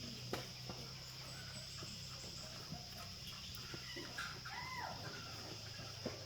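Insects droning steadily at a high pitch over a low hum, with a couple of sharp clicks and a chicken's short rising-and-falling call about four and a half seconds in.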